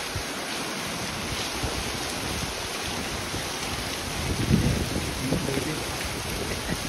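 Heavy rain falling steadily on a patio and awning: a dense, even hiss. A brief louder low rumble comes about four and a half seconds in.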